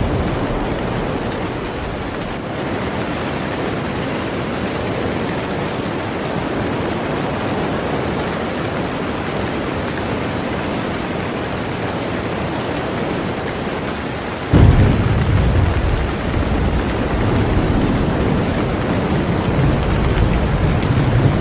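Heavy rain falling steadily on a boat. About fifteen seconds in, a sudden deep rumble breaks in and keeps rolling under the rain.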